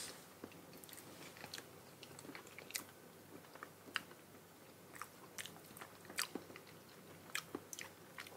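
People chewing soft Monthong durian flesh: faint, scattered wet mouth clicks and smacks, many small ones throughout.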